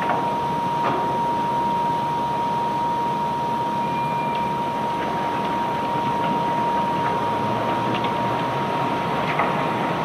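Unloading machinery running steadily with a constant high whine, and a few faint knocks or clicks now and then.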